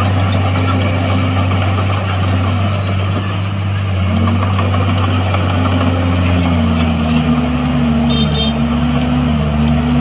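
Heavy earthmoving machinery's diesel engine running steadily, with its pitch wavering up and down from about four seconds in as the engine works.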